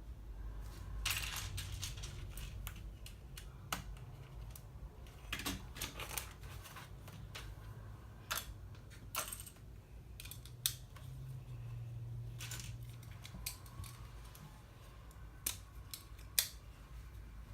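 Plastic LEGO pieces being handled and pressed together, with many irregular sharp clicks and light clatters. A low steady hum runs underneath.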